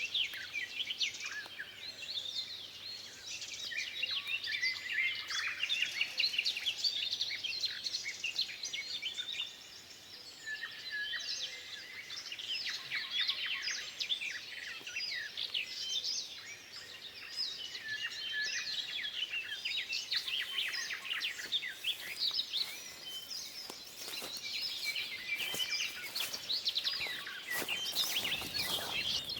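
Many songbirds singing and calling together in a forest chorus, dense chirps and trills. Several sharp clicks come in the last third, with a louder knock near the end.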